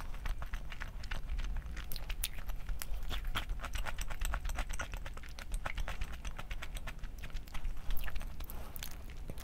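Close-miked chewing of crunchy food: a rapid run of crisp crunches and clicks, busiest a couple of seconds in, with one sharper click about eight seconds in.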